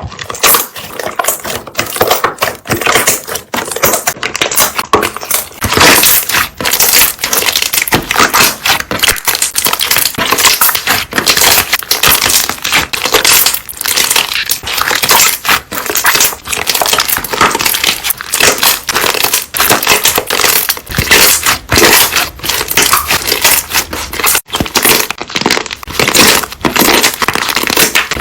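Slime being squeezed and pressed by hand, its trapped air bubbles popping in a rapid, dense crackle of small clicks and pops.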